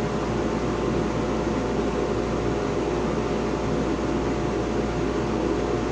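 Steady hum and whir of an electric motor running at constant speed, with a few steady tones over an even noise.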